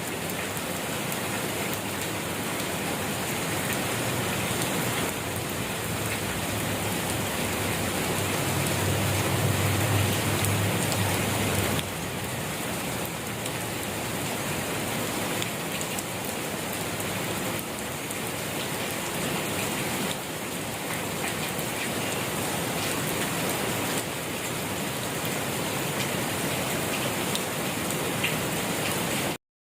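Steady rain falling on a surface, an even hiss with scattered individual drop ticks. A low rumble swells in the middle and fades, and the sound cuts out briefly near the end.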